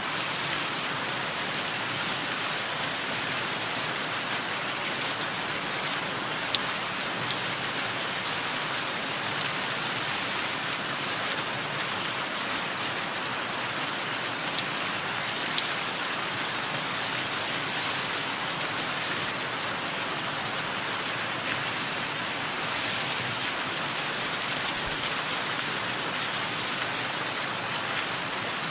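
Steady rain falling, with songbirds chirping over it in short high notes, some single and some in quick runs of several.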